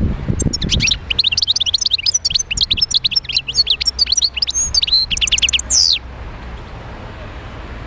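European goldfinch singing a fast twittering song of rapid chirps and trills for about five seconds, ending with a falling note and then stopping.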